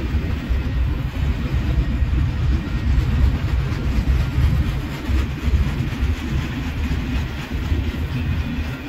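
Double-stack container train rolling past, a steady low rumble of wheels and cars on the rails.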